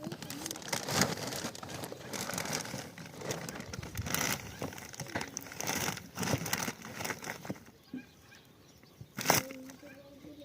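Irregular rustling and crackling with many small clicks, then a bird's low cooing call near the end.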